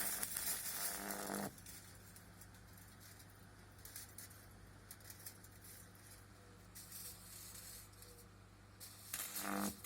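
High-voltage arc from a microwave oven transformer at about 2000 volts: a loud crackling, sizzling discharge over a low buzz for about the first second and a half, then only the transformer's steady low hum, until the crackling arc starts again near the end.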